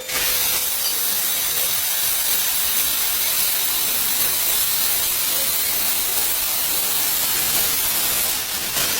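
A steady, high hiss of a pressurised spray, starting abruptly and dying away after about eight and a half seconds.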